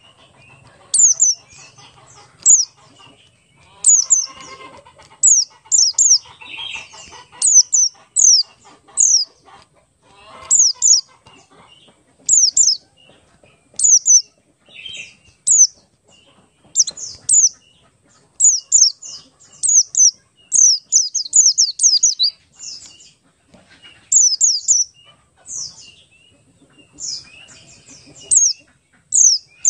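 Buxtoni white-eye (pleci) singing: repeated clusters of two to four very high, quick, downward-sweeping notes, about one cluster a second.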